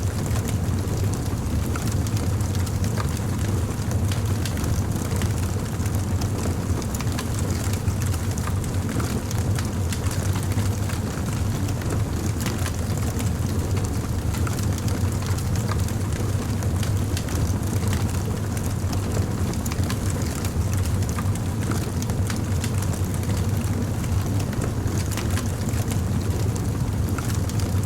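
Wood fire crackling: frequent small, irregular pops and snaps over a steady low rumble.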